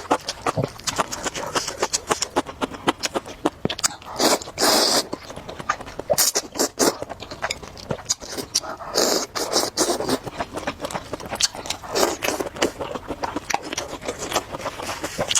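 Close-miked eating of noodles: many quick wet mouth clicks of chewing, broken by several longer slurps, about four seconds, six to seven seconds, nine seconds and twelve seconds in.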